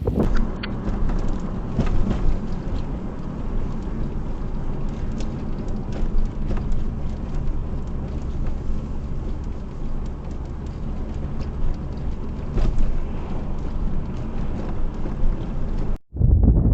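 Strong wind buffeting the microphone: a steady low rumble with scattered faint ticks.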